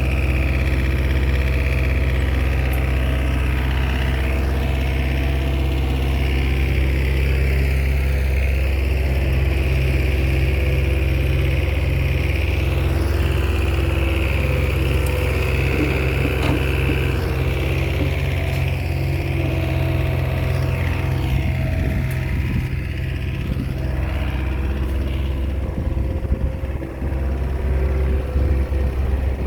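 Small crawler bulldozer's diesel engine running steadily under load, with the engine note shifting and some clanking in the last several seconds.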